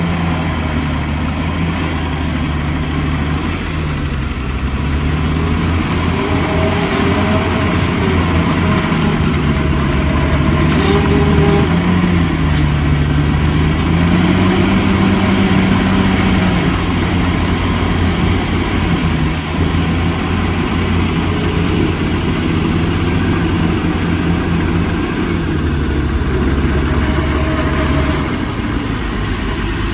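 Heavy diesel engine of earthmoving machinery running steadily, its pitch rising and falling again and again as it revs up and eases off.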